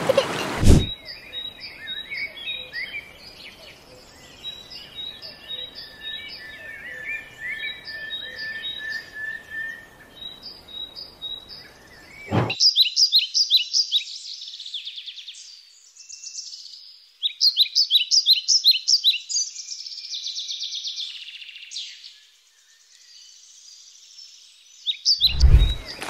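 Several wild birds singing in woodland, with short repeated chirps and a thin steady whistle, until an abrupt cut about twelve seconds in. After the cut, louder songbird phrases with rapid trills follow. Footsteps on a dirt path begin just before the end.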